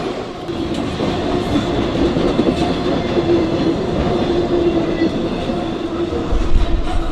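A train rolling past close by: a steady rumble of steel wheels on the rails with a continuous hum and scattered clicks.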